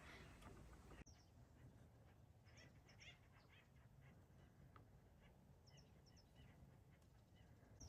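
Faint bird calls: short chirps scattered through, some in quick pairs, over a low steady background rumble, with an abrupt shift in the background about a second in.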